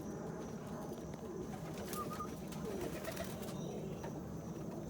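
Several pigeons cooing together in a loft, a steady low overlapping murmur, with a few light clicks about two seconds in.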